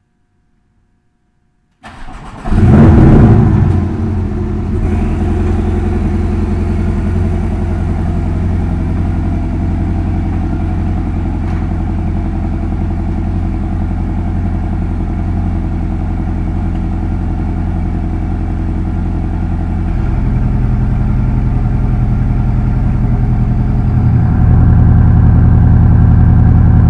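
Porsche 718 Boxster S's 2.5-litre turbocharged four-cylinder cold-starting about two seconds in: a brief crank, a loud flare of revs, then settling into a steady fast idle. The idle gets a step louder about twenty seconds in and again near the end.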